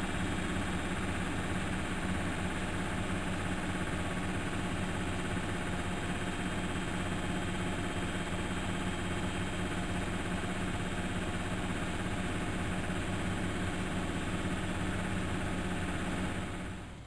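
Miele Novotronic W 2200 washing machine running with a steady hum during a 95 °C wash, which drops away suddenly near the end.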